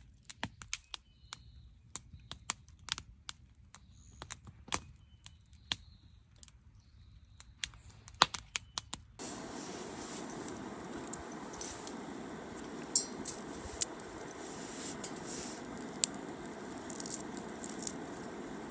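Wood fire crackling with sharp, irregular pops over a quiet background. About nine seconds in, it changes to a louder, steady hiss of burning with lighter crackles.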